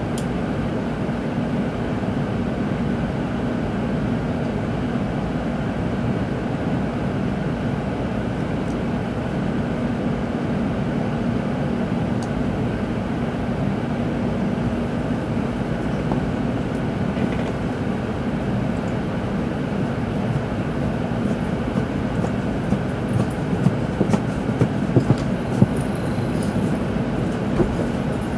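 Tokaido Shinkansen train running, heard from inside the passenger cabin: a steady rumble with a low hum. A scatter of sharp clicks comes in near the end.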